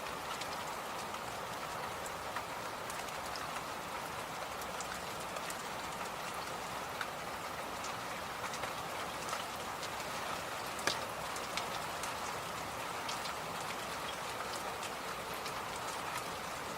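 Electric fan running steadily: an even rushing whoosh, with faint irregular clicks and ticks scattered through it.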